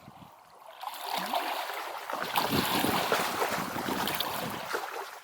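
Wind buffeting the microphone, a rushing noise with gusty low rumbles that swells about a second in and cuts off suddenly at the end.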